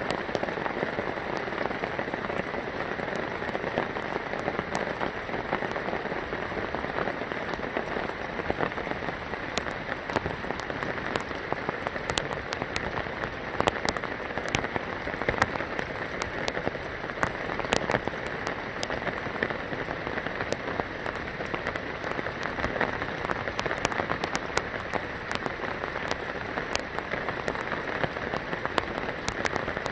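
Steady rain falling, a continuous hiss with many sharp, separate drop ticks scattered through it.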